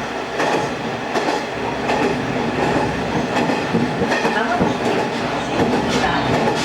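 Local diesel railcar running along the line, heard from on board: steady engine and rolling noise with a few sharp clacks of the wheels over rail joints.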